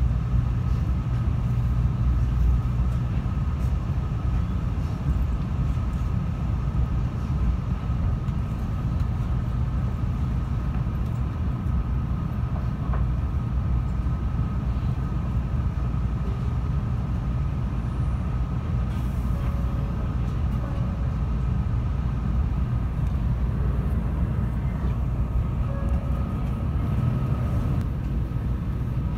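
Inside the carriage of a 700 series Rail Star shinkansen slowing into a station: a steady low rumble with a thin, faint whine above it. Near the end the whine cuts out as the train comes to a stop.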